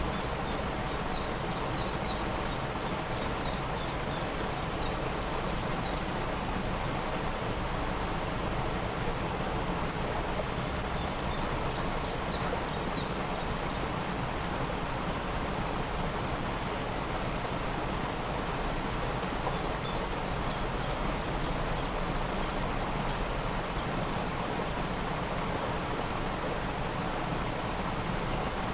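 Waterfall's steady rush of falling water, with a bird singing three runs of rapid, high, down-slurred notes, about four a second.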